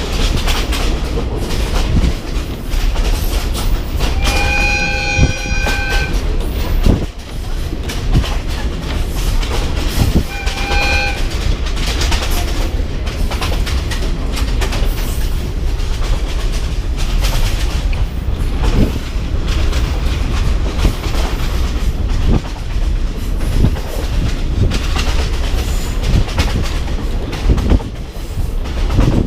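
Train running on the tracks, its wheels clacking and the carriages rattling steadily. The locomotive's horn sounds twice, a blast of about two seconds starting about four seconds in and a short one about ten seconds in.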